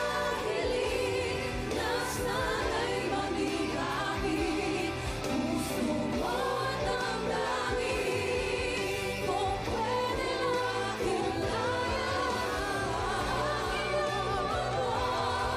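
Music: women singing a pop ballad in harmony, backed by a full choir and accompaniment.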